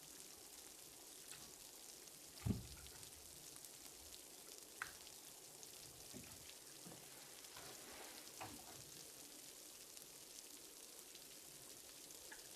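Faint steady hiss with a few light clicks and knocks, the most distinct a soft thump about two and a half seconds in.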